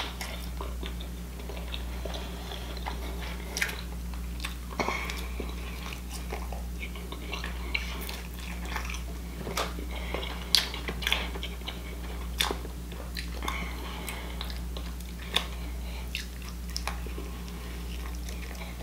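A person biting into and chewing a sesame-seed-bun burger: irregular wet mouth clicks and smacks over a steady low hum.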